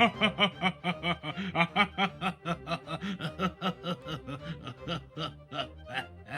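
A man's deep, put-on villain laugh: a long unbroken string of short 'ha' pulses, about five or six a second, slowly trailing off.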